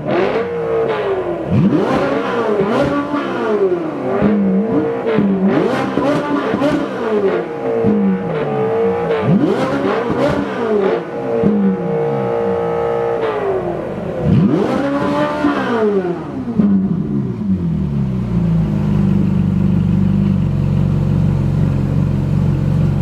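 V8 sports car engine revving hard again and again, each rev climbing quickly, holding high and dropping back, with one longer held rev about twelve seconds in. After about eighteen seconds it settles to a steady, deep idle.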